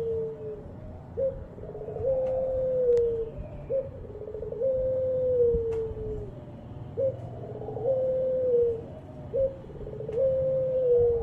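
A puter pelung dove cooing repeatedly in a steady rhythm. Each coo is a short rising note followed by a long, low held note that sags at the end, about four times in a row.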